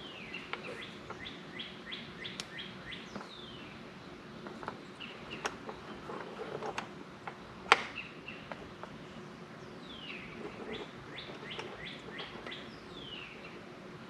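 A songbird calling in two runs of quick, downward-sliding chirps, one at the start and one from about ten seconds in. Between them come several sharp clicks and ticks, the loudest a little before eight seconds in.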